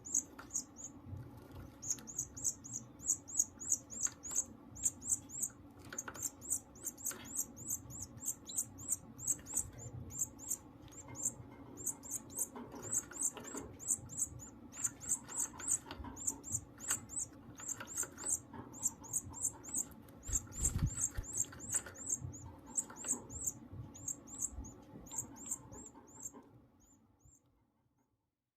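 Goldfinch × canary hybrid chick giving rapid, very high begging peeps in long runs, several a second, as the mother canary feeds it, over soft rustling in the cage. The peeps fade out near the end.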